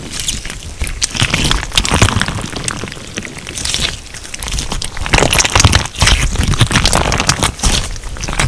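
Crunch slime being squeezed and kneaded by hand, a dense run of crackles and small pops over soft squelching, louder and busier from about five seconds in.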